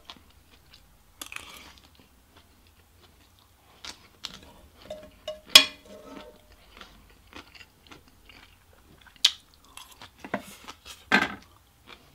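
Close-miked chewing and mouth sounds of someone eating fried rice and ramen noodles, with scattered wet clicks and a few louder sharp smacks about a third of the way in and near the end.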